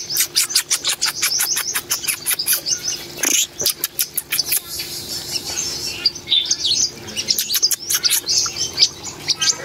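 Sunbirds calling: a fast run of high, sharp chirps, about eight a second, for the first couple of seconds, then scattered chirps.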